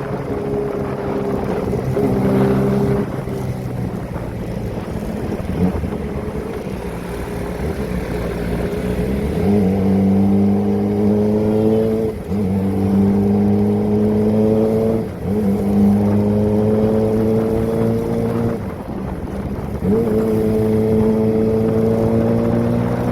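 Kawasaki ZX-25R's four-cylinder engine running through a Prospeed aftermarket exhaust while the bike is ridden. About nine seconds in, the revs rise, and then the engine note climbs steadily several times, each climb cut by a sudden dip as the revs drop, as at gear changes.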